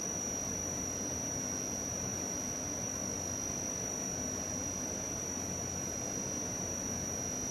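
Steady background hiss with a constant high-pitched whine, unchanging throughout.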